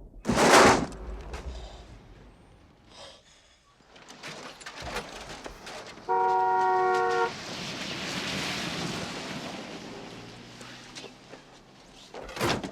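Film traffic sound: a sudden loud rush of a vehicle passing near the start. About six seconds in comes a held vehicle horn blast of several tones at once, lasting just over a second. Steady road and wind rush follows.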